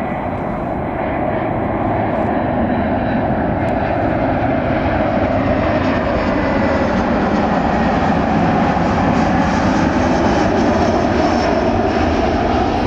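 Airliner engines on approach to land, a steady rushing drone that grows gradually louder as the aircraft comes closer.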